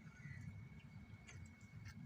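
Near silence: a faint low rumble of background noise with a faint steady high-pitched whine and a few soft clicks.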